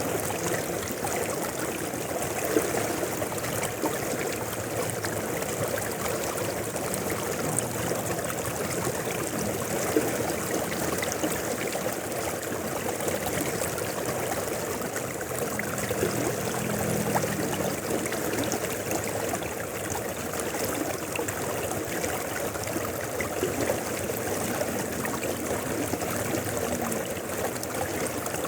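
Mountain river flowing over rocks, a steady rushing and babbling of water with small splashes scattered through it.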